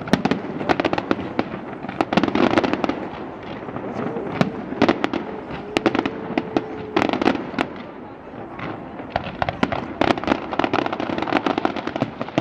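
Fireworks display: a rapid, irregular string of sharp bangs and crackles that runs on with hardly a pause, busiest in clusters rather than at an even rhythm.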